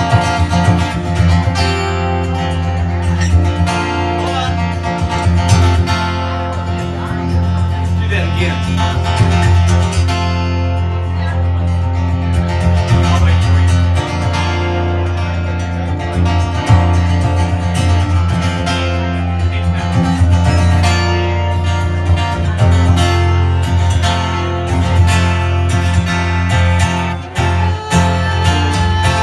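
Live acoustic guitar music: guitar strumming and picking through a song's instrumental introduction, before any singing comes in.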